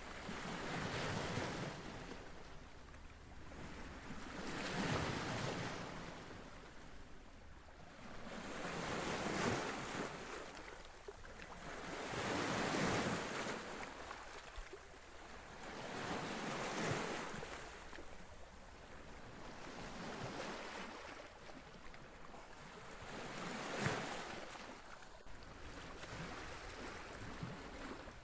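Small waves washing in on a lakeshore, a rush of surf swelling and fading about every four seconds.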